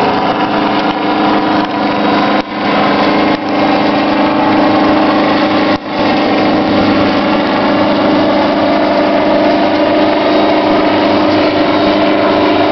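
Helicopter in steady flight: engine and rotor running as a loud, even drone with a steady whine, briefly dipping three times in the first six seconds.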